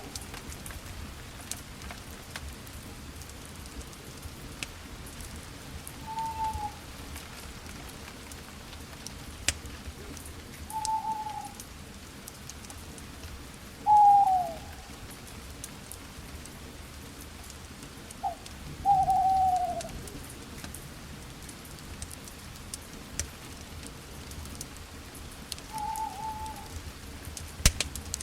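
Campfire crackling with scattered small pops and one sharp pop near the end, while an owl gives short hoots that dip slightly in pitch, about every four to five seconds; the hoots are the loudest sound.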